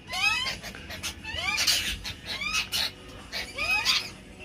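A mixed flock of magpies, happy jacks and lorikeets squabbling: a rapid series of rising chirps with harsh screeches in between.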